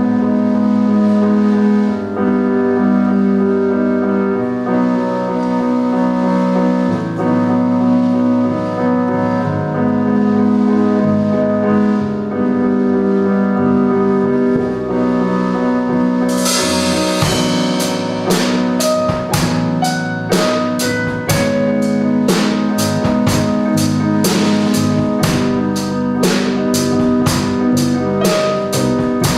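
Jazz trio of keyboard, bass and drums playing: keyboard chords over a bass line, with the drums coming in a little past halfway and keeping a steady cymbal beat of about two strokes a second.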